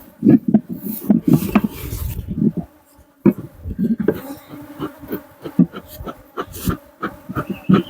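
Honeybees buzzing around an opened top-bar hive, individual bees swelling and fading as they fly close past the microphone over a steady hum of the colony. Scattered clicks and knocks are heard throughout.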